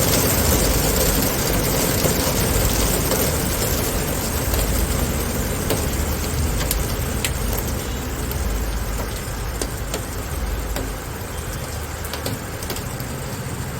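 Steady heavy rain falling, a dense hiss with a low rumble underneath and scattered sharp ticks, easing off slightly toward the end.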